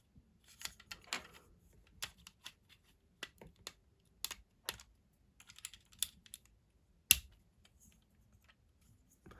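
A plastic Lego model being handled: irregular light clicks and taps of the bricks knocking together and against a surface, with one sharper knock about seven seconds in.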